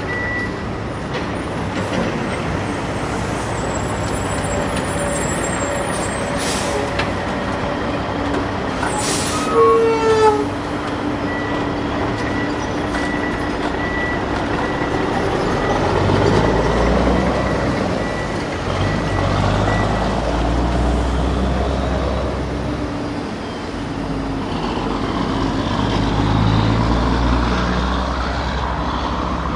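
Sound effects of a heavy truck: an engine running steadily, with a short air-brake hiss about nine seconds in and reversing beeps repeating a little faster than once a second through the middle.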